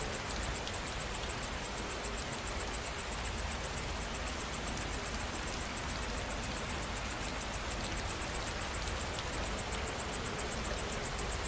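Steady rainfall, with an insect chirring high and fast, about six pulses a second, that pauses briefly partway through.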